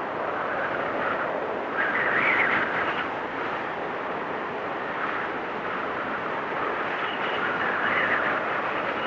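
Blizzard wind blowing steadily, with gusts that swell about two seconds in and again near the end.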